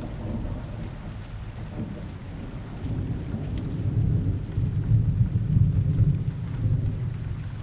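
Steady rain with a low rumble of thunder that swells and rolls through the middle and falls back near the end.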